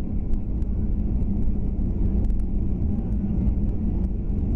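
Steady low rumble of cabin noise inside a Boeing 737-800 airliner, with faint light ticks and rattles through it.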